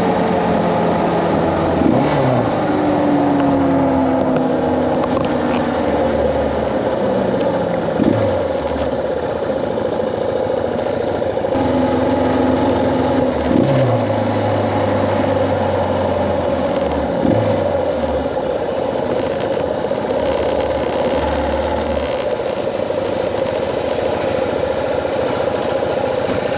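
Suzuki DR650's single-cylinder engine running while riding, with a brief quick rev about four times as it changes gear.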